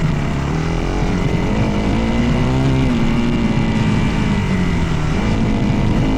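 A dirt bike engine under way, its revs rising and falling with the throttle, dipping just after the start and again about five seconds in.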